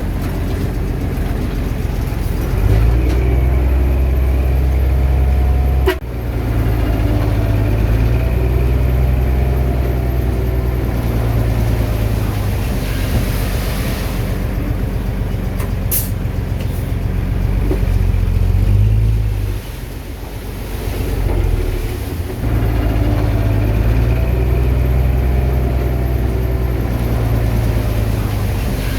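Bulldozer's diesel engine working under load as it pushes soil, a heavy low rumble. It swells about three seconds in, eases off for a couple of seconds past the middle, then pulls hard again, with a sharp click near six seconds.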